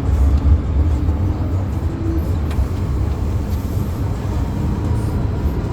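Hong Kong MTR Island Line metro train running between stations, heard from inside the carriage: a steady low rumble of wheels and running gear.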